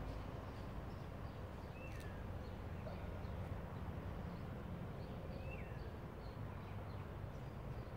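Outdoor ambience: a steady low rumble, with a bird giving a short falling call twice, about two seconds in and again near six seconds, over faint high chirps.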